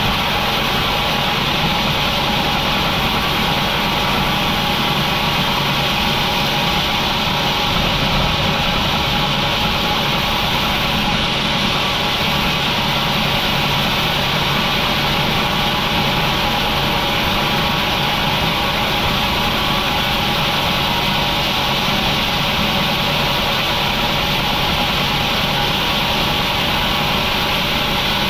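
Industrial sawmill machinery running steadily, a constant mechanical hum with several held tones and no breaks or changes.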